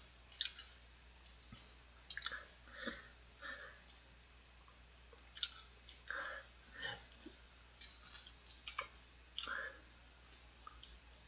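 A person eating crispy fried chicken: faint, irregular clicks and small crunches of chewing and mouth sounds.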